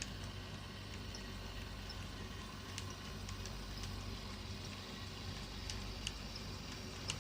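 HO scale model Shay locomotive and freight cars running on model track: a steady low hum with scattered, irregular sharp clicks.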